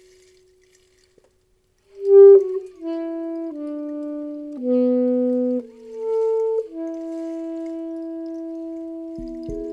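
Saxophone playing a slow melodic phrase of held notes, starting after about two seconds of near silence and settling on one long held note. Near the end a few soft knocks bring in other ringing tones underneath.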